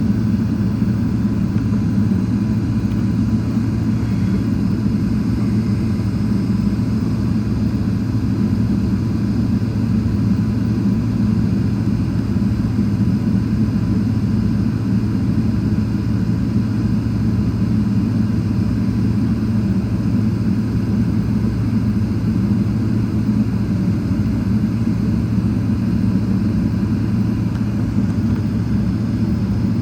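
Steady low drone of a Boeing 777-300ER's engines and airflow, with a faint thin whine above it, unchanging throughout.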